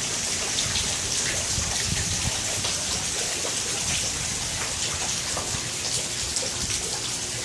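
Steady rain falling: a continuous hiss with scattered small ticks of drops.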